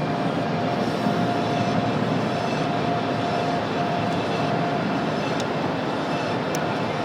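Car wash air-dryer blowers running, heard from inside the car as a steady rush of air with a faint steady whine.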